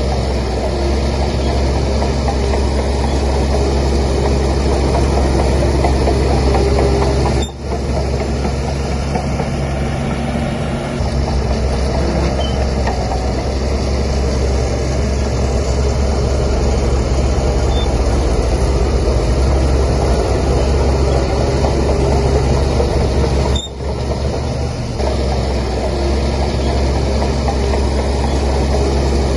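Heavy diesel engine of a Shantui DH17C3 bulldozer running steadily with a deep rumble. The sound dips briefly twice, about seven and twenty-three seconds in.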